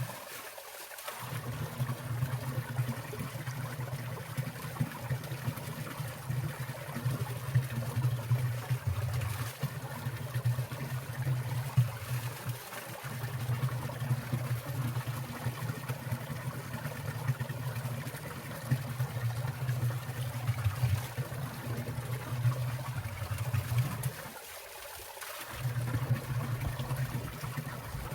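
Winter valley stream trickling and splashing, with water falling from icicles: a steady rush of small splashes, its low rumble dropping out briefly near the start and again about 25 seconds in.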